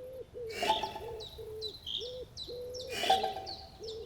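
Birdsong: a run of short, low hooting notes, about two or three a second, with higher chirps over them and two louder harsh calls, about half a second and three seconds in.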